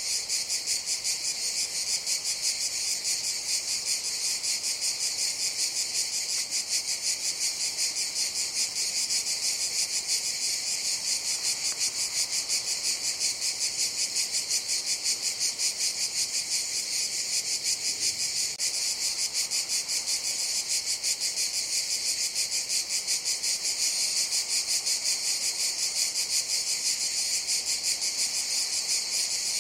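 Cicadas singing as a continuous high buzz with a fast, even pulse, holding steady throughout.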